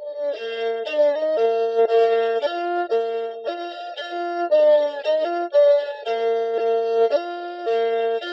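Background music on a Hmong raj, a reed pipe, playing a melody of short held notes over a steady higher tone.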